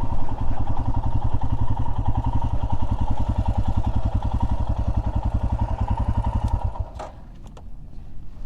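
Royal Enfield Himalayan's 411 cc single-cylinder engine running with a steady, even pulse. It stops abruptly about seven seconds in, leaving a few clicks and a knock.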